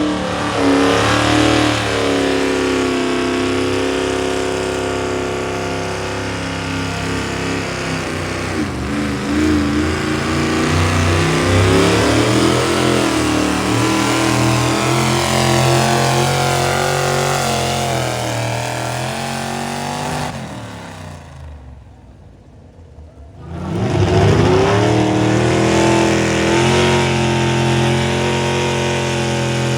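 A pulling vehicle's engine running hard at high revs, its pitch rising and falling as it works under load. About two-thirds of the way through it dies away briefly, then an engine climbs back up to full revs and keeps running.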